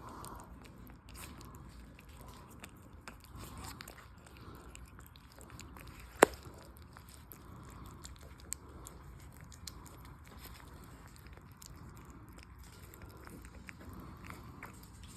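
A pug puppy eating: many small chewing and smacking clicks, with one sharp louder click about six seconds in.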